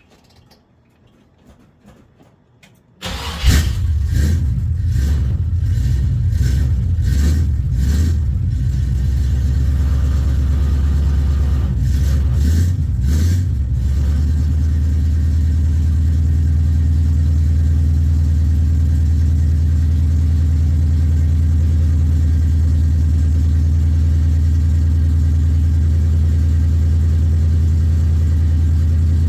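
1971 Chevrolet C20 pickup engine cold-starting about three seconds in, revved unevenly several times for about ten seconds, then settling into a steady low idle.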